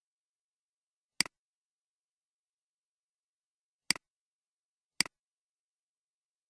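Computer mouse button clicking three times, each click a sharp press followed at once by a softer release, in otherwise dead silence.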